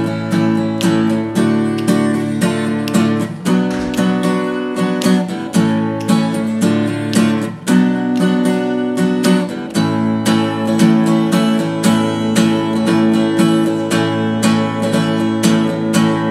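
Acoustic guitar strummed in a steady rhythm as an instrumental break, with no singing; the chords change a few times.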